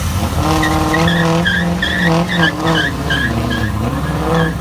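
A car's tyres squealing while its engine is held at high revs; the squeal wavers in pitch in quick repeated chirps and cuts off near the end.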